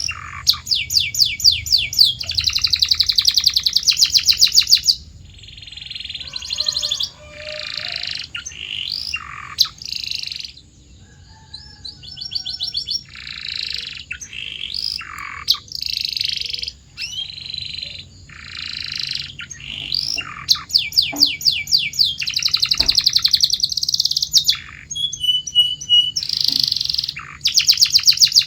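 Domestic canary singing a long, continuous song of rapid trills and rolls, phrase after phrase with brief pauses between. The fastest and loudest trills come near the start and again about two-thirds of the way through, with softer, more varied phrases in between.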